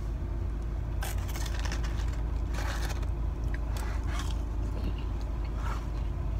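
Chewing and crunching of crispy fried chicken breading: a handful of brief crackly crunches over a steady low hum inside a car cabin.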